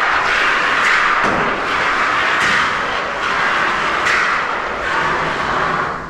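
Aerosol can of expanding spray foam hissing steadily as foam is sprayed into gaps, easing off briefly a few times and stopping near the end.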